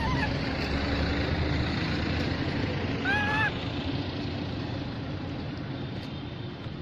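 Baby monkey giving two short, arched crying calls, one at the start and one about three seconds in, over steady background rumble.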